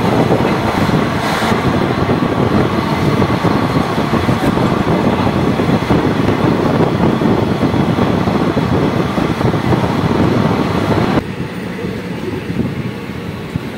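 Passenger train coach running on the track, heard from the open doorway: a loud, steady rumble of wheels on rails with rushing air. About eleven seconds in it drops suddenly to a quieter, lower rumble.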